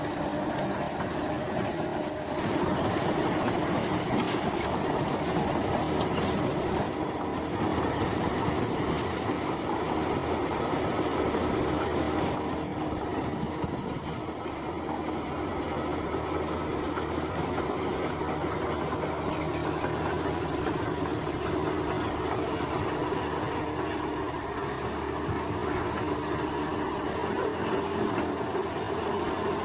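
Komatsu crawler bulldozer working steadily, its diesel engine running under the clatter and squeal of its steel tracks, with a high, flickering whine over it.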